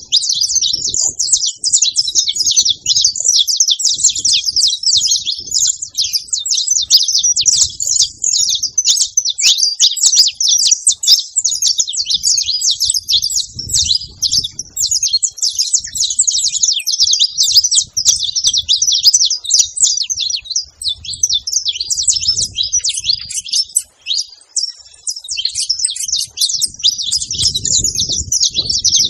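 Saffron finches chirping and singing without pause, a dense run of rapid, high notes.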